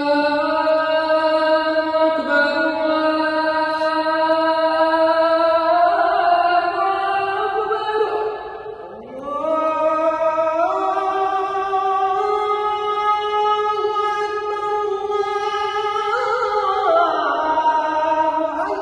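A solo voice chanting an Islamic religious melody in long held notes that bend and step slowly in pitch. The phrase breaks briefly about eight seconds in, then a new rising phrase begins.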